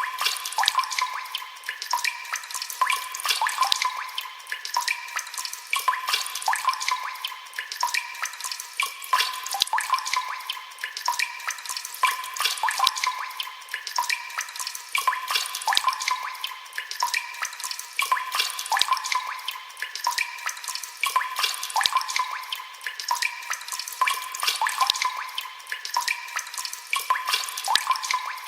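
Running water splashing and dripping, a continuous patter of many small irregular drops.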